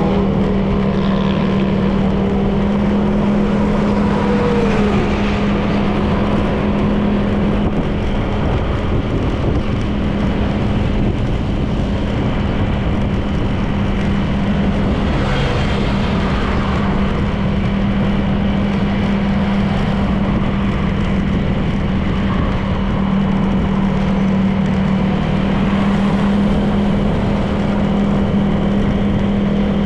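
Honda PCX 160 scooter's single-cylinder engine running at a steady cruising speed, with wind and road noise on the helmet or bike-mounted camera's microphone.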